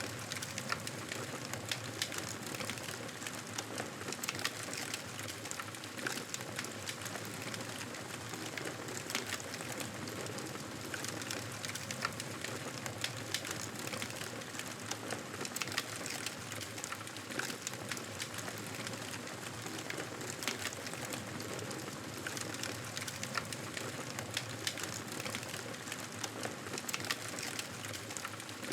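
Wood fire crackling in a fireplace: a steady hiss with frequent small sharp pops and snaps.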